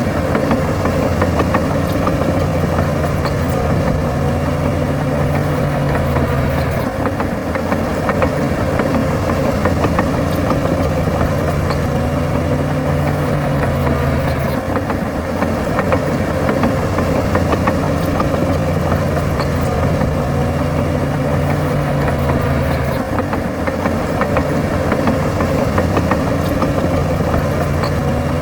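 Heavy earthmoving machine's diesel engine running steadily, its engine note shifting slightly about every seven to eight seconds.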